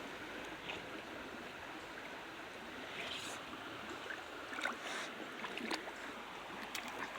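Brook water running over rocks, a steady rushing hiss, with a few faint clicks scattered through it.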